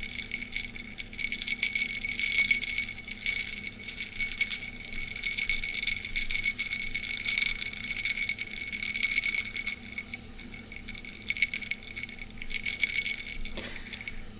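Ice cubes clinking and rattling against the sides of a glass of water as it is swirled, the glass ringing under the knocks, in waves that come and go and turn quieter over the last few seconds.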